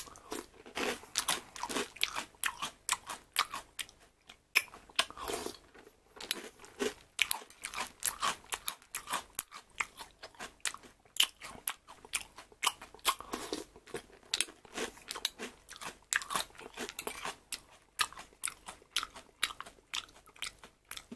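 Close-up chewing of crunchy chocolate cereal in milk: crisp, irregular crunches, many a second, going on without a break.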